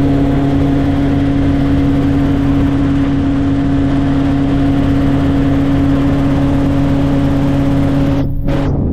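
Helicopter in flight: a steady engine and rotor drone with a constant low hum. Near the end it breaks off and gives way to a rushing, wind-like noise.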